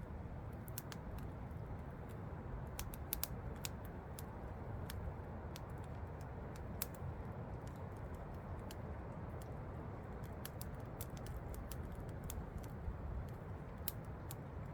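Campfire crackling and popping with irregular sharp snaps, over the steady rush of a waterfall.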